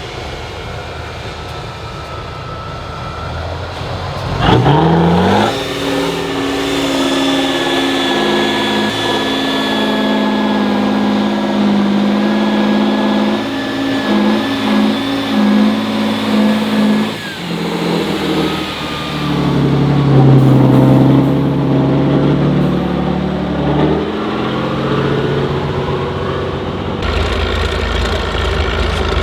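Off-road competition truck engine revving hard under load. It climbs sharply about four seconds in and holds high revs for a long stretch, drops back, then revs up again before settling lower.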